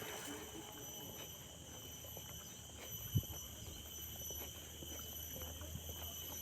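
Crickets singing in a steady chorus of several high, unbroken tones, with light footsteps on a trail and one thump about three seconds in.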